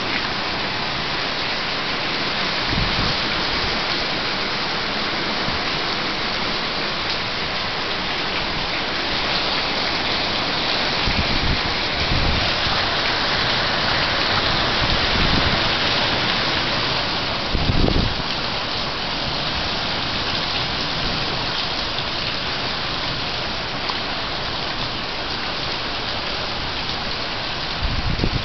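Heavy rain pouring down in a storm, a steady hiss, with a few brief low thumps along the way.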